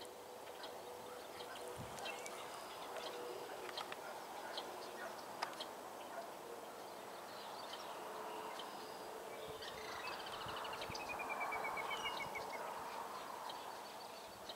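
Wild birds chirping and calling around a pond, short scattered chirps with a fast trill of notes falling in pitch about ten seconds in.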